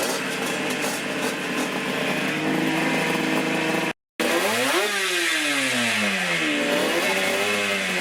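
Two-stroke motorcycle engines running at a steady pitch. After a brief cut about four seconds in, an engine's pitch rises quickly and falls away, then rises and falls again near the end.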